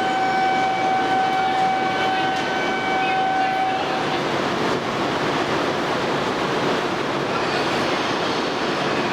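E2 series Shinkansen train running along the platform with a steady rushing noise. A single held tone sounds over it for about the first four seconds, then stops.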